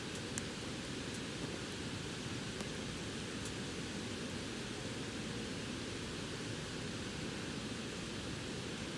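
Steady rushing of flowing river water, with a few faint crackles from a bonfire in the first few seconds.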